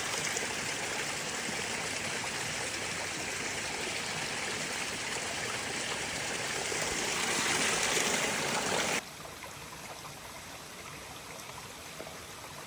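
Running water of a small creek, a steady rushing that swells slightly, then cuts off abruptly about nine seconds in to a fainter, steady hiss.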